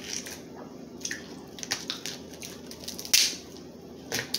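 Crab legs being cracked open and eaten: scattered sharp cracks and wet clicks of shell, the loudest crack about three seconds in.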